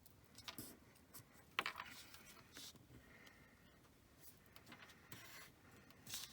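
Faint rustling and light crinkles of paper strips being handled and pressed onto a card mask, a few short ones about a second apart, in a quiet small room.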